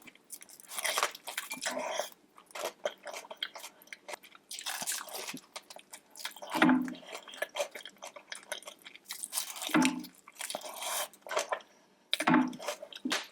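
Close-miked eating: wet chewing and biting with crunchy crackles, in irregular bursts.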